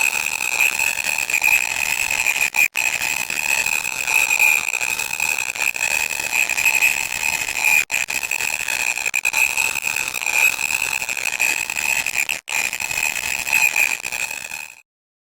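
Loud electronic static: a harsh hiss with a steady, piercing high-pitched whine running through it. It drops out for an instant three times and cuts off suddenly near the end.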